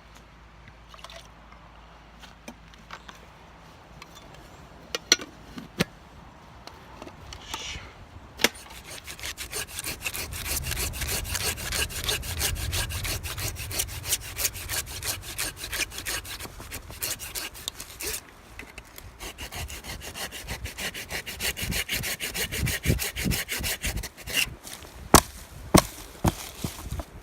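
Hand saw cutting through wood in a long run of quick, even strokes, starting about a third of the way in and stopping a few seconds before the end. It is framed by a few sharp knocks and snaps of wood being handled.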